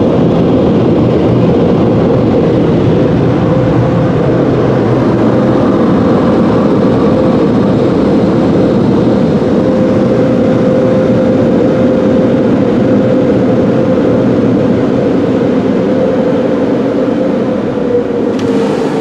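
Mark VII car wash air dryer blowers running, a loud steady rush of air with a steady hum, heard from inside the car. Near the end the sound eases off and the hum drops slightly in pitch.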